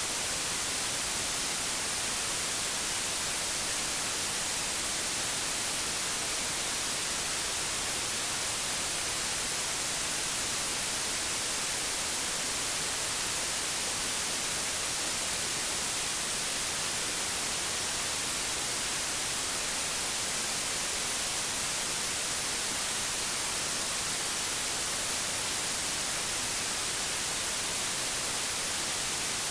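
Steady white noise: an even hiss with no pitch or rhythm, heaviest in the high end.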